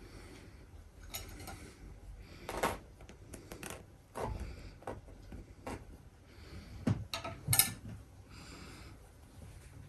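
Irregular clicks, knocks and short scratchy rasps of a stuffed plush toy being handled and pulled apart.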